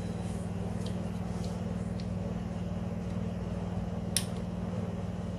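A steady low machine hum, with a few light clicks and one sharp click about four seconds in.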